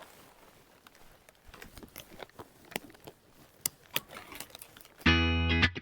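Faint, scattered crinkles and clicks of plastic sheeting being handled. Near the end, distorted electric guitar music starts loudly.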